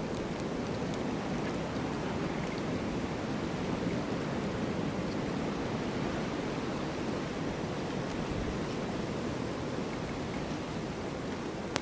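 Snowstorm wind blowing as a steady, dense rush with no gusts standing out.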